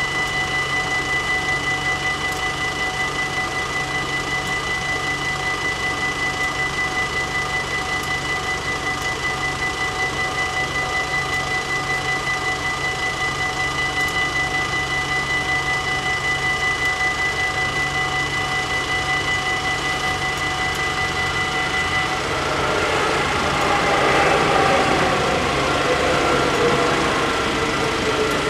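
Dutch level-crossing warning bells ringing rapidly and steadily, stopping abruptly about 22 seconds in. A train then runs past, louder, with a whine that falls in pitch.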